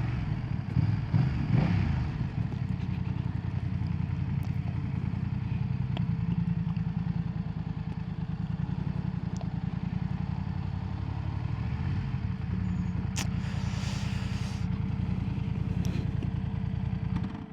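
BMW F900R's 895cc parallel-twin engine running steadily at low revs, then switched off near the end, its sound cutting out suddenly.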